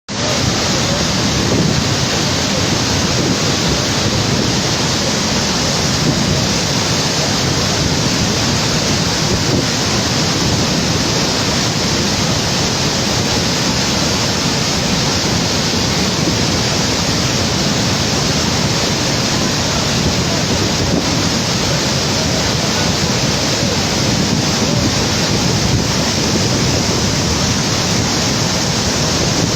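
Loud, steady rush of floodwater, a swollen river running high.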